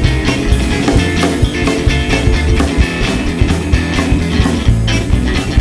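Live rock band playing an instrumental passage: guitar, bass and drums with a steady, quick beat.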